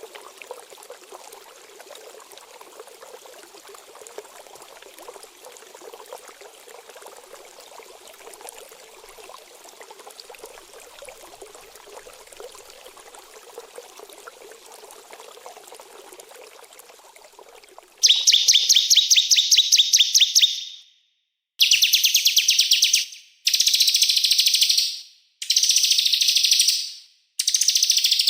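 Running water trickles steadily and fairly quietly, then cuts off about two-thirds of the way in. A small songbird then sings loudly in a rapid, high trill of repeated sharp notes, in about five phrases of one to two and a half seconds with short pauses between them.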